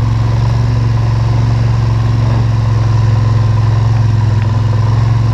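ATV engine running steadily at an even low drone.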